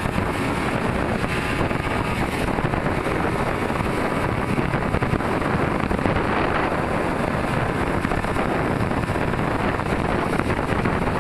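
Motorcycle on the move, its engine running under a steady rush of heavy wind on the helmet camera's microphone.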